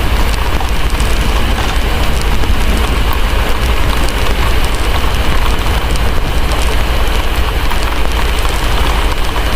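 Steady heavy rain with a constant deep rumble underneath and faint fine crackling of a wood fire, blended as an unchanging ambience loop.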